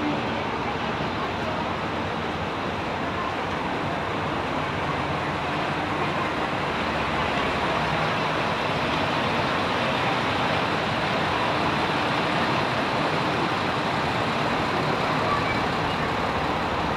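Steady running noise of a train: a continuous, even rumble with no distinct clicks or beats.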